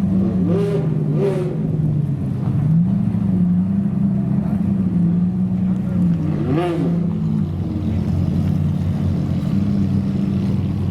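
Supercar engines idling, with short throttle blips: two quick revs in the first second and a half and a sharper one a little before seven seconds in.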